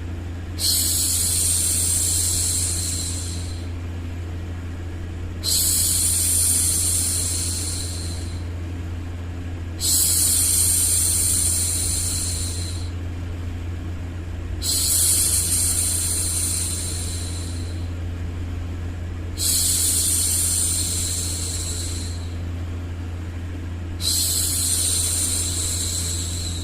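A woman's voice shushing a baby with long 'shhh' hushes, six of them, each about three seconds long and coming about every five seconds, over a steady low hum.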